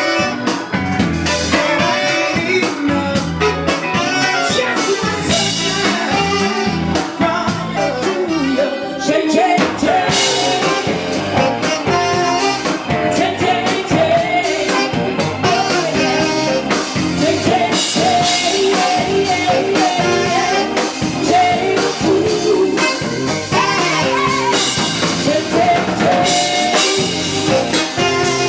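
Live blues band playing, with drum kit and guitar under a singer's voice.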